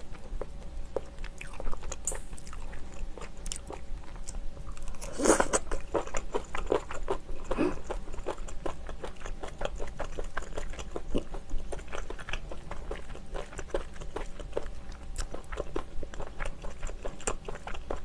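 Close-miked chewing of firm, springy steamed shellfish meat: a steady run of small wet clicks and crunches, with a louder flurry about five seconds in. The meat is chewy and crunchy.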